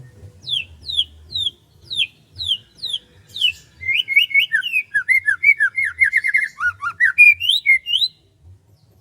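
Songbird singing: a run of clear downward-sliding notes about two a second, then a faster, busier run of notes for about four seconds that stops abruptly about eight seconds in. A faint low rumble lies underneath.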